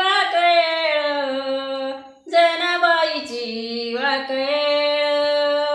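A woman singing a Marathi ovi, a traditional grinding-mill song, in long held notes that step between pitches, with one short break for breath about two seconds in.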